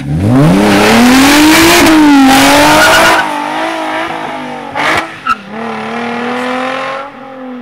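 Hyundai Genesis Coupe's 3.8-litre V6 running with its muffler unhooked, revved hard under acceleration: a very loud exhaust note climbs in pitch for about two seconds. After about three seconds it eases off and settles into a quieter, steadier note that slowly rises.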